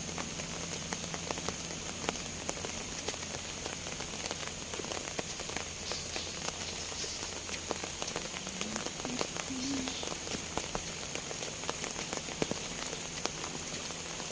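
Tropical forest ambience: a steady high-pitched insect drone with scattered light crackles and taps.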